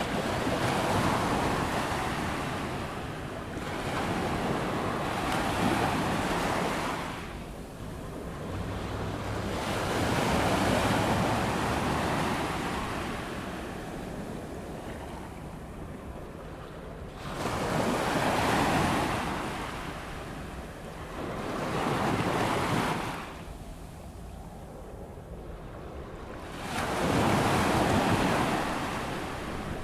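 Ocean waves breaking and washing up the beach on an incoming tide, in swells that rise and fall every few seconds, with some wind on the microphone.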